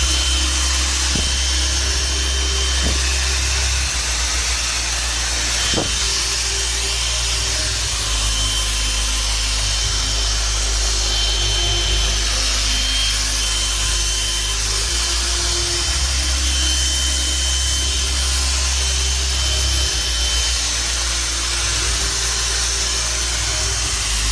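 Grundig 21.6 V cordless cyclonic vacuum cleaner running steadily: a rush of air with a thin, high motor whine.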